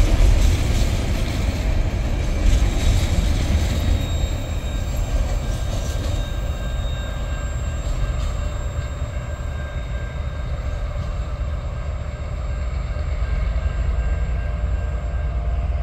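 Loaded container wagons of a freight train rolling by on the rails, a steady low rumble with faint, thin high squealing tones from the wheels.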